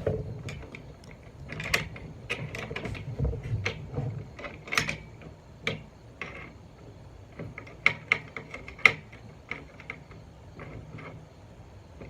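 Irregular metallic clicks and clinks of a wrench working a lock nut down onto a bolt in the boom fitting, a sharper clink every second or so.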